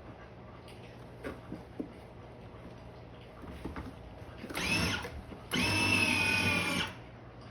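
Electric drive motor of a child's ride-on toy monster truck whining in two bursts, a short one then a longer one, as it drives under power, with a few light knocks before.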